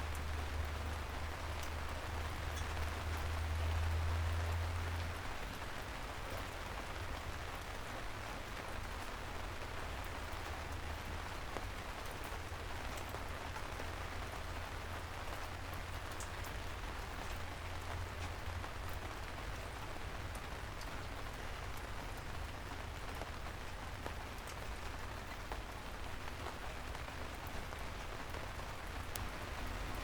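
Steady gentle rain falling on a city street, with scattered drops ticking through it. A low rumble under the rain is loudest in the first few seconds, then eases.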